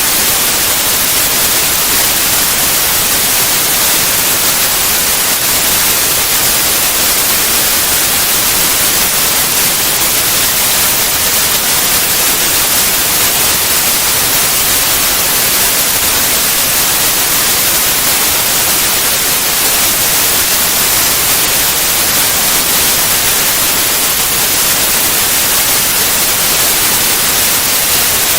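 Steady white noise: an even, loud hiss that does not change.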